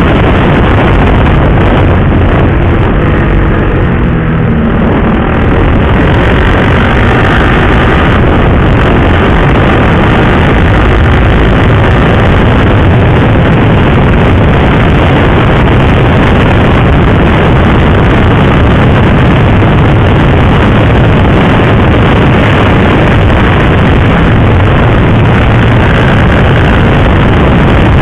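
Motorcycle being ridden at speed: a steady rush of wind on the microphone with the engine running underneath. About four seconds in, an engine note falls in pitch for a moment.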